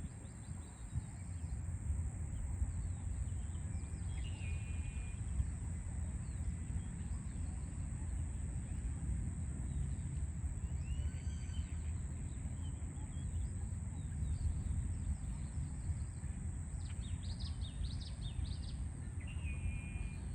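Birds chirping in short phrases every few seconds over a steady low rumble of city traffic.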